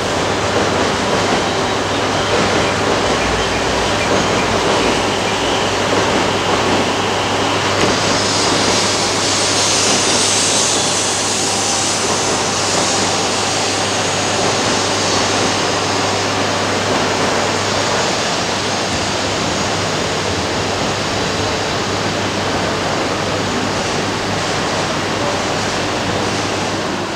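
Shinkansen train pulling into the platform: steady running noise over a constant low hum, with a brighter hiss from about a third of the way in.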